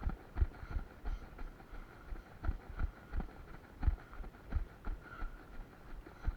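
Running footsteps: dull thumps about two a second, uneven in strength, over a faint steady high whine.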